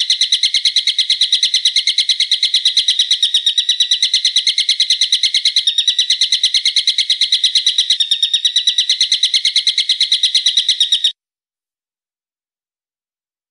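Songbird's rapid, sharp trill of evenly repeated notes at about eight a second, held steadily for some eleven seconds, then cutting off abruptly.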